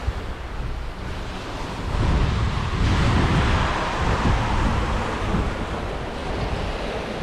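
Sea rushing along a sailboat's hull under way in strong wind, with wind buffeting the microphone. The rush swells with a passing wave about two seconds in.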